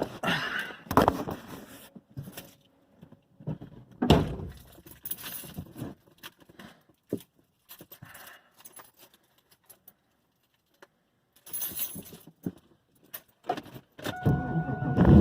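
Keys jangling and scattered clicks and knocks, then about a second before the end the LS1 V8 of a 2001 Camaro SS starts up and runs steadily, with a steady whine-like tone over the rumble.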